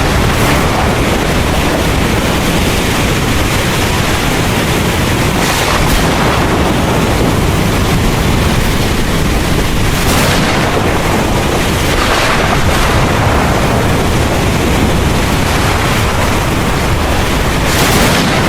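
Heavy rain falling steadily under a deep rumble of thunder, with a few brief swells in the rain noise.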